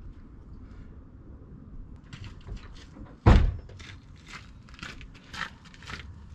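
Someone rummaging through tools or parts: a run of clicks and clatters, with one loud thunk a little past three seconds in.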